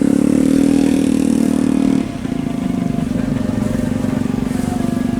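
Motorcycle engine running close by, held at raised revs for about two seconds and then dropping back to a steady, even idle.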